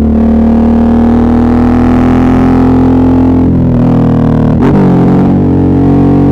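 Suzuki V-Strom 650's V-twin engine running steadily under way. Its note shifts briefly about four and a half seconds in, then settles slightly higher.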